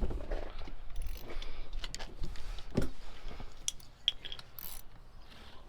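Metal hand tools clicking and clinking while sockets are swapped on a socket wrench: a string of irregular light clicks.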